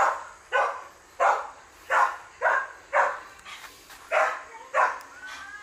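A dog barking repeatedly, about two barks a second with a short break in the middle, ending in a drawn-out whine.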